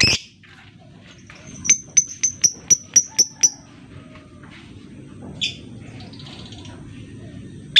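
Lovebird calling: a fast run of about eight sharp, high chirps at roughly four a second, then a lone call, with a loud shrill call at the start and another at the end.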